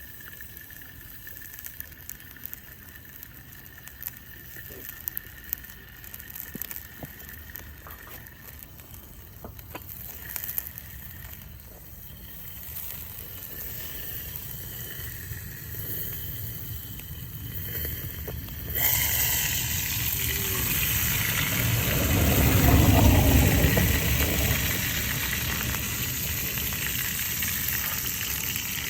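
A few faint clicks over low background noise, then, about two-thirds of the way in, a loud sizzle starts suddenly as food hits a hot cast-iron skillet over a campfire and keeps frying to the end.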